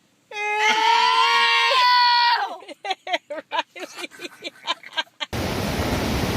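A long, loud, high-pitched cry, then a quick run of short cries about four a second. About five seconds in it cuts to the rush of wind and surf.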